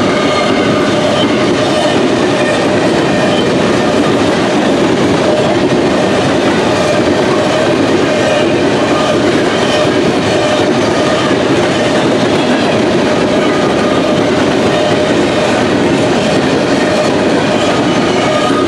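Empty covered hopper cars of a long freight train rolling past at close range: a steady, loud rumble and clatter of steel wheels on the rails, with a steady ringing tone running through it.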